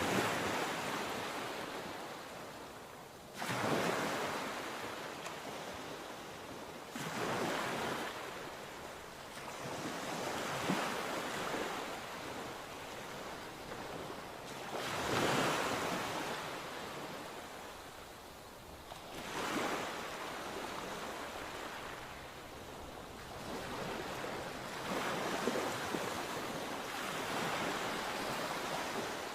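Sea waves breaking on the shore: a surge of surf about every four seconds, each coming in quickly and then fading away as the water washes back.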